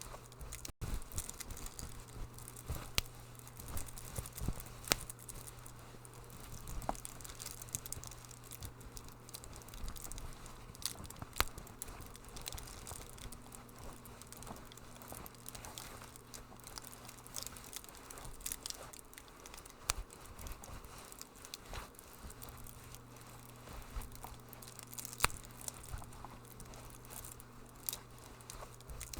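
Wood fire crackling in a fireplace, with irregular sharp pops and snaps over a soft hiss. A steady low hum runs underneath.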